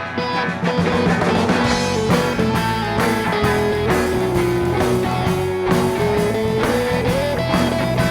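Live rock band playing the instrumental intro of a song: guitars over a drum kit, with a lead line holding long notes that step up and down in pitch.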